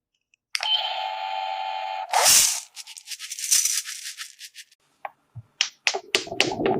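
Plastic toy playset being handled: a short steady electronic toy tone, then a burst of rattling and a run of quick plastic clicks, with a steady hum starting near the end.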